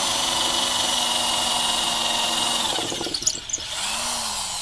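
Black+Decker TB555 electric hammer drill running at a steady speed with a high motor whine, then released just under three seconds in: a few clicks, and the whine falls in pitch as the motor spins down.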